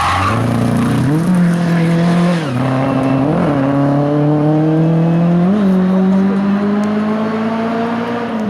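Race car engine under hard acceleration, its pitch climbing and dropping at several quick gear changes. A tyre squeal dies away at the very start.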